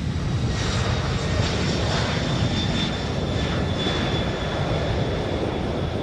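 Jet engines of a C-5 Galaxy airlifter running: a steady low rumble with a thin high whine, turning louder and more rushing about half a second in.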